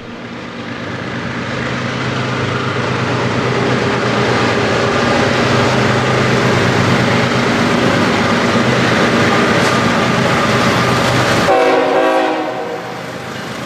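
Mixed freight train led by a GE GEVO locomotive passing at close range, sounding its horn, with the locomotives' engines and the wheels on the rails. The loudness builds over the first two seconds and dips briefly near the end.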